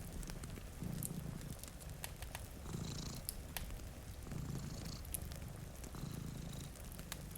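Cat purring, swelling and fading with each breath about every second and a half to two seconds, over scattered crackles of a wood fire and a faint steady hiss of rain.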